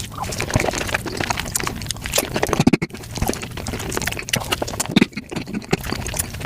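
Eating sounds from mango desserts played back at five times normal speed: a rapid, dense stream of chewing, smacking and slurping clicks.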